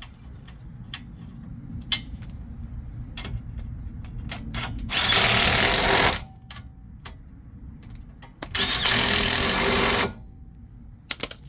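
A power tool runs in two loud, steady bursts, the first about a second long and the second about a second and a half, with scattered metal clicks and knocks of tool handling before, between and after.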